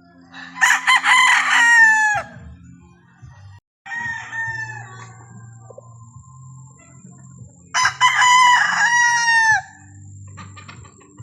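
Roosters crowing: two long, loud crows, each falling away at the end, about seven seconds apart, with a fainter crow between them. A low steady hum runs underneath.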